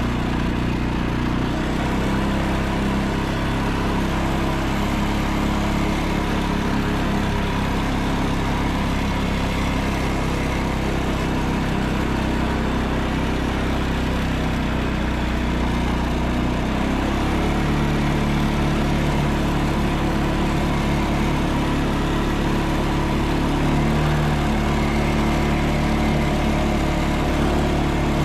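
CFMoto CForce ATV engine running steadily under way, its note shifting to a different pitch about two-thirds of the way through.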